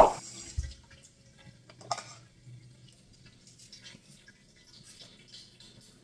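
A running water tap shut off with a sharp knock, then a few small knocks and faint drips from the sink.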